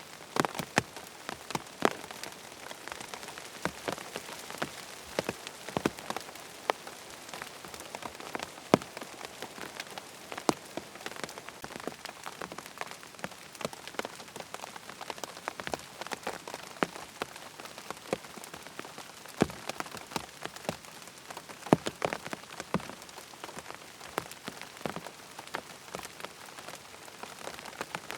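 Rain falling on a tent: a steady patter with many separate heavier drops striking the fabric at irregular moments.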